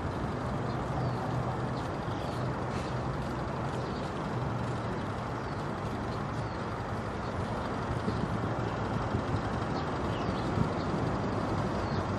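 Steady outdoor traffic rumble with a low hum, and faint short high bird chirps now and then.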